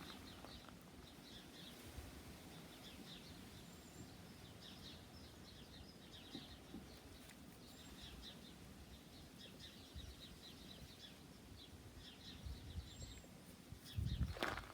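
Faint birds chirping over low steady background noise, with a short louder thud near the end.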